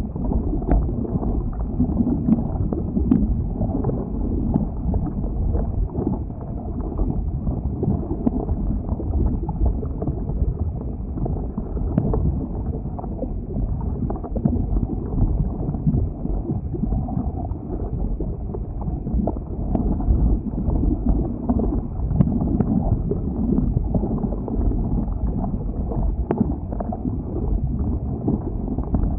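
Flowing lava: a steady low rumble with a few faint sharp crackles scattered through it.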